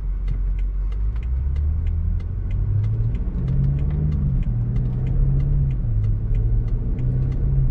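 Turbocharged BMW engine heard from inside the cabin, pulling away gently while still warming up. Its pitch climbs for a few seconds and steps back down about four seconds in, as the transmission shifts up. A steady light ticking of several clicks a second runs underneath.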